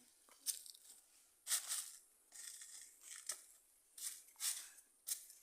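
Footsteps crunching and rustling through dry leaves and brush on a forest trail, in about seven irregular short bursts.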